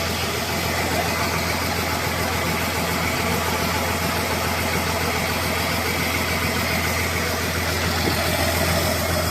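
Diesel engine idling steadily, with an even, unbroken running note.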